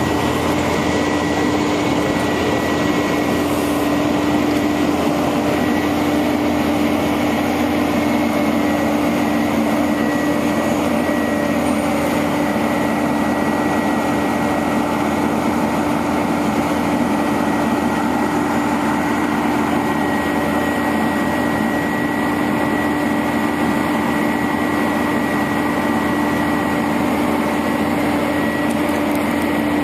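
A 1999 International 4900 bucket truck's engine running steadily, with a constant hum and a steady high whine over it.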